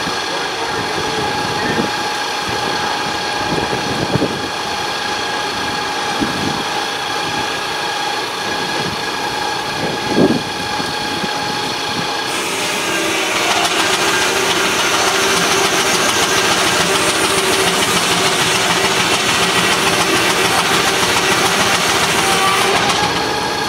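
Steam-driven sawmill running, its circular saw giving a steady whine. About halfway through, the blade enters a log and a loud hissing cutting noise with a lower tone joins in, lasting until near the end.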